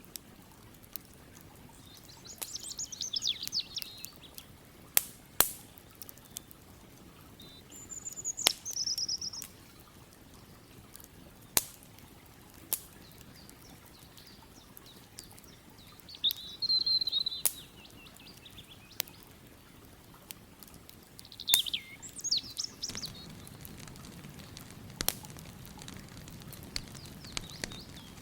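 Songbirds singing in short warbling phrases, about four times, with sharp scattered pops of a crackling wood campfire in between. A low rushing of river water grows in the last few seconds.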